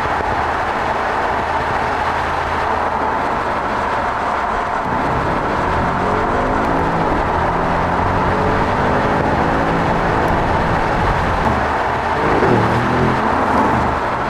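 Audi S4 Avant's 3.0-litre V6 engine running as the car is driven: steady at first, then climbing in pitch from about five seconds in, with a drop and climb again near the end.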